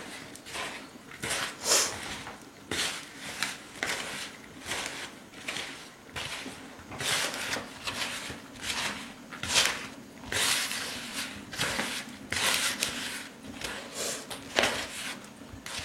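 Hands rubbing and squeezing a crumbly cocoa dough of flour, sugar and melted butter in a bowl: irregular rustling, crumbling strokes, one or two a second.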